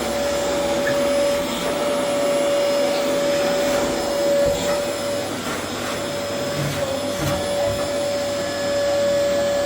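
Steady whirring of a motor-driven blower, with one constant whine held throughout.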